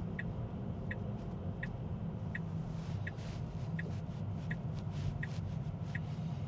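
Tesla turn signal ticking evenly, about one click every 0.7 seconds, over the steady low hum of road and tyre noise inside the car's cabin.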